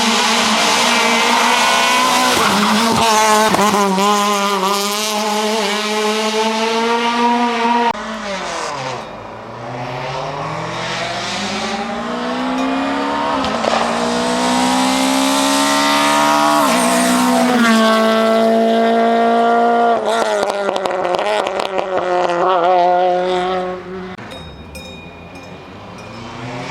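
Ford Fiesta RS WRC rally car, its 1.6-litre turbocharged four-cylinder engine screaming at high revs. The pitch holds high, drops when the driver lifts, then climbs again through quick upshifts. It gets quieter near the end.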